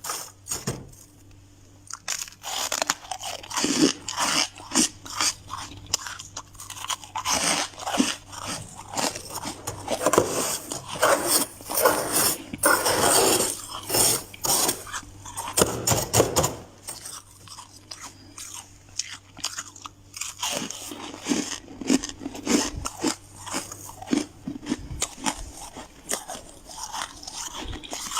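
Close-up eating of freezer frost: repeated crisp, squeaky crunching and chewing of powdery frost, denser and louder in the middle stretch.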